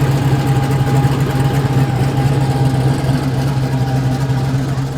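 An engine running steadily, with a low drone and a thin steady whine above it.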